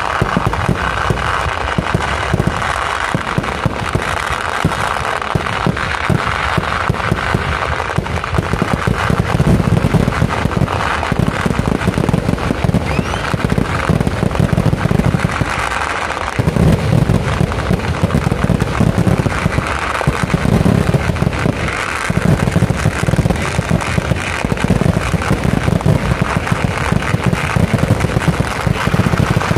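Fireworks barrage: rapid, continuous bangs of shells and crackers bursting, with no let-up.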